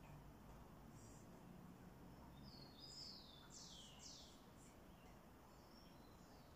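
Near silence: quiet room tone, with a short run of faint, high chirps falling in pitch about three seconds in, from a small bird.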